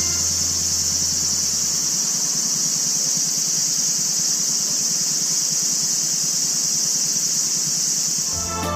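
Cicadas buzzing in a steady, unbroken high-pitched chorus, with music coming in at the very end.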